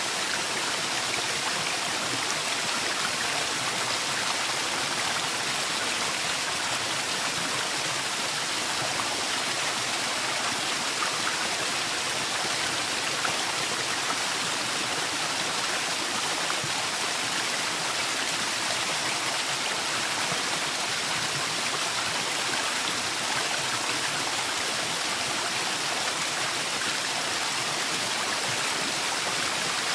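Waterfall in a forest: water falling and rushing in a steady, even hiss.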